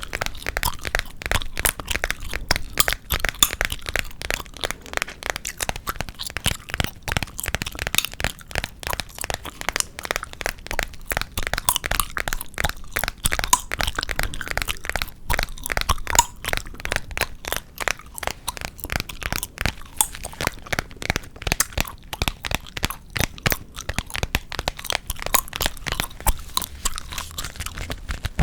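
Close-miked gum chewing for ASMR: a continuous run of crisp, sharp smacks and clicks, several a second, without a pause.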